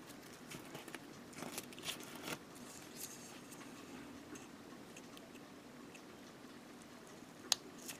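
Faint clicks and scratchy rustling from handling small plastic model-kit parts, with a sharper click near the end.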